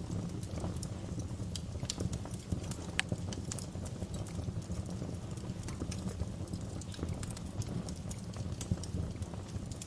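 Wood fire in a fireplace crackling, with irregular sharp pops over a steady low rumble of the burning fire.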